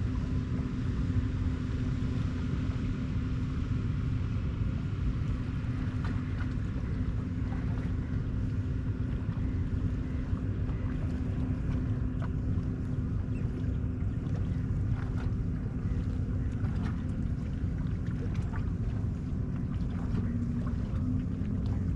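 A steady low rumble with a constant engine-like hum running under it, unchanging throughout, with a few faint ticks.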